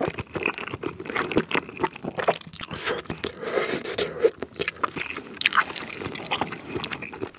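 Close-miked chewing and wet mouth sounds from eating spicy rice cakes and fish cakes in sauce, made up of many irregular small clicks and smacks, with chopsticks scraping and tapping against a plastic takeout tub.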